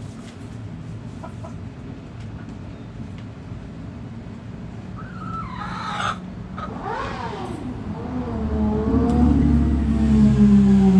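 A rooster crowing with rising and falling calls about halfway through, over a steady low hum. In the last few seconds a loud, low, drawn-out tone slowly falls in pitch, louder than the crow.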